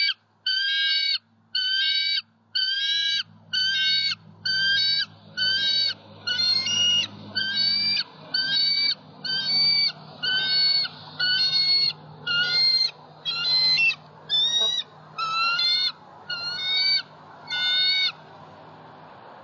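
A bird calling over and over in an even series, roughly three short, fairly high calls every two seconds, over a low steady hum. The calls stop near the end.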